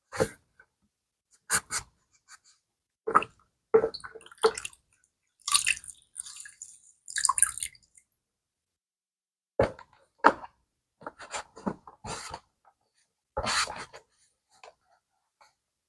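Irregular short rubbing and wiping strokes of a cleaning rag on a leather bag, a dozen or so brief scuffs with silent gaps between them.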